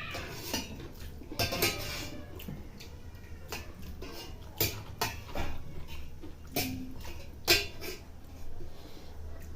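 Spoons clinking and scraping against dishes as people eat: a series of irregular sharp clinks, the loudest about seven and a half seconds in.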